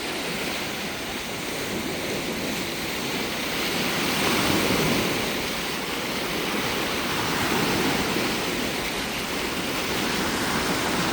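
Lake waves washing onto the shore: a steady rushing wash that swells and eases slowly.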